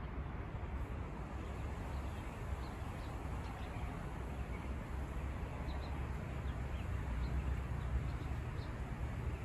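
Faint bird chirps here and there over a steady low rumble of outdoor background noise.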